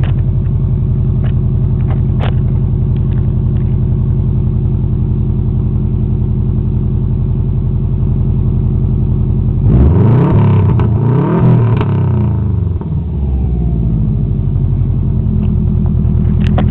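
2005 Subaru Legacy GT's turbocharged flat-four idling steadily through a resonator-deleted exhaust with no mufflers. About ten seconds in it is revved up and down for roughly three seconds, then settles back to idle.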